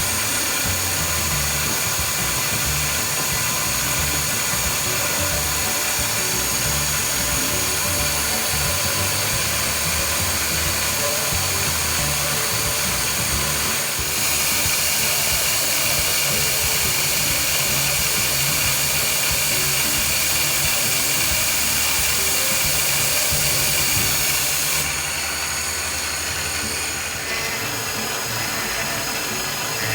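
CNC milling spindle running steadily with a high whine as it cuts POM plastic. The whine strengthens about halfway through and drops back near the end.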